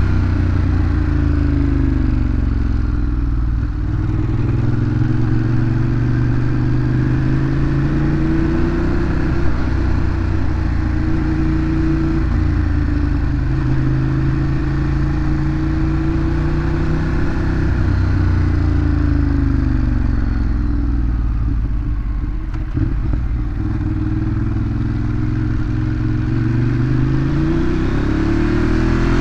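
Ducati Monster 821's L-twin engine through its stock exhaust while riding, the revs repeatedly climbing and falling as it accelerates and eases off, with a long dip in pitch about two-thirds through and a climb again near the end.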